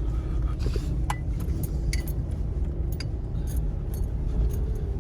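Vehicle driving over a bumpy dirt track: a steady low rumble with frequent rattles and clinks from the jolting.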